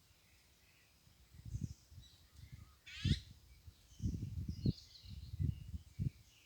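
Faint bird chirps, with one louder call about three seconds in, over a run of low thumps and rustling close to the microphone that are louder than the birds.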